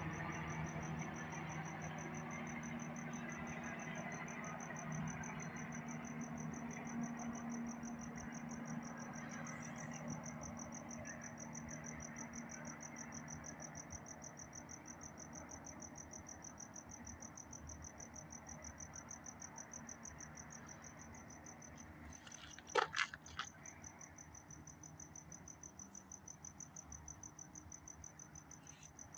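A helicopter's engine and rotor drone fading away into the distance, under a steady high-pitched cricket trill that carries on alone as the drone dies out. A brief cluster of sharp clicks about three-quarters of the way through.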